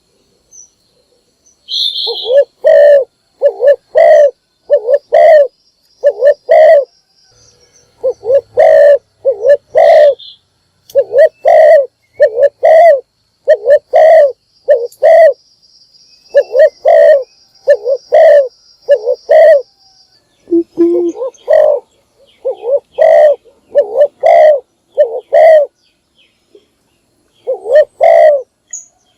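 Spotted dove cooing loudly: phrases of short, low coo notes in quick succession, broken by brief pauses.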